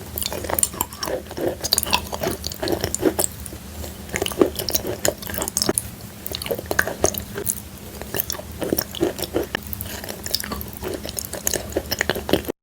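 Close-miked chewing of chalk coated in clay paste: irregular crisp crunches, several a second, mixed with softer pasty squishes. It cuts off suddenly near the end.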